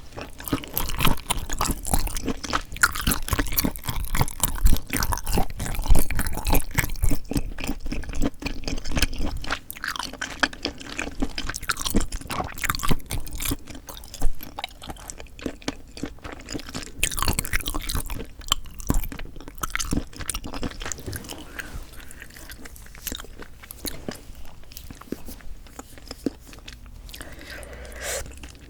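Close-miked eating: chewing and crunching bites of food in the mouth, dense and busy for the first ten seconds or so, then slower and quieter chewing.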